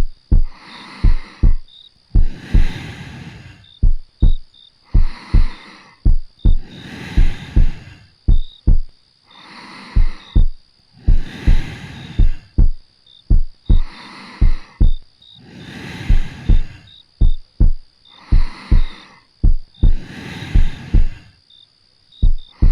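Heartbeat sounds, steady paired lub-dub thumps, with soft slow breathing swelling in and out about every two seconds.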